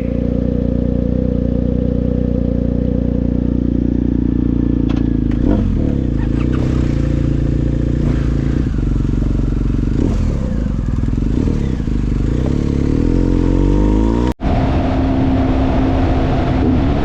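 Motorcycle engine running under way, a steady pitched drone that shifts up and down with the throttle. About fourteen seconds in the sound drops out for an instant and comes back with a different, higher tone.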